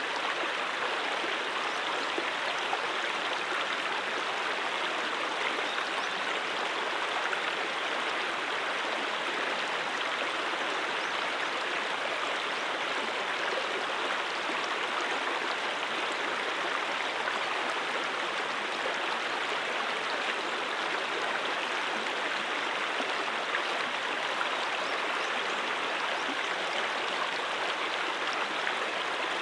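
A stream of running water flowing with a steady, even rush that does not change over time.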